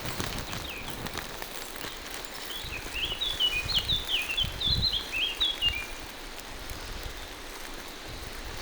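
Steady rain falling through the forest, with a songbird singing a quick run of short, high chirping notes from about two and a half seconds in to about six seconds. Soft low thuds come and go underneath.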